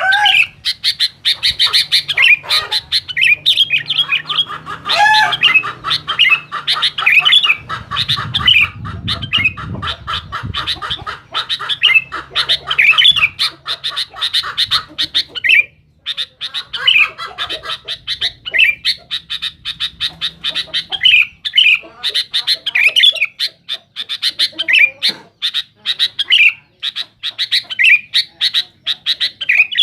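Sooty-headed bulbul (kutilang) singing busily and without pause: a dense stream of rapid chattering notes broken by short, repeated sweeping whistles, with brief lulls about two thirds of the way through.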